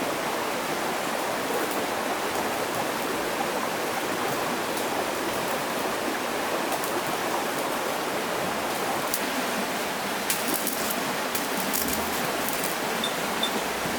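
Rushing stream water, a steady even hiss, with a few faint light clicks or taps in the second half.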